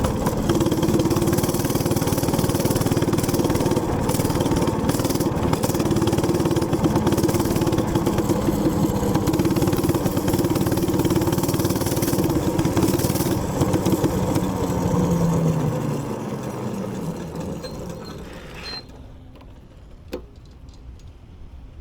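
Minibike's small gas engine running hard at a steady speed, with wind buffeting the microphone. About fifteen seconds in the engine note falls away and the sound dies down to quiet, with a single click near the end.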